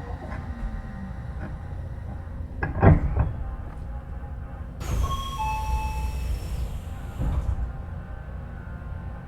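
Inside an Odakyu 3000-series electric car as it stands at a station. A falling motor tone fades out about a second in, followed by a loud thud. Near the middle comes a burst of air hiss with short chime-like tones, then another thud: the passenger doors working.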